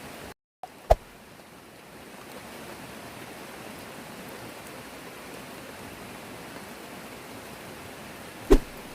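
Steady hiss of rain. It cuts out briefly just before half a second in, then a sharp knock comes a little before one second, and a louder single thump near the end.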